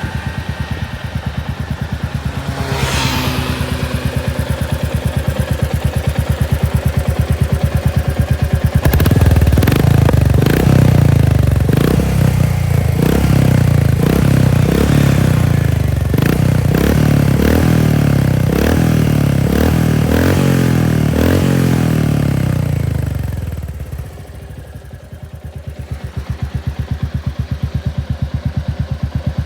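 Royal Enfield Meteor 350's single-cylinder engine through a Red Rooster aftermarket exhaust, idling with a steady thump. From about nine seconds in it is revved again and again in quick blips, louder, for about fifteen seconds, then settles back to idle.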